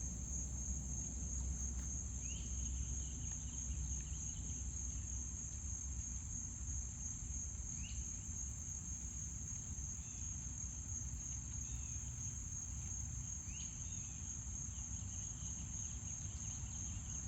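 Steady high-pitched insect chorus, crickets trilling without a break, over a low rumble, with a few faint short chirps now and then.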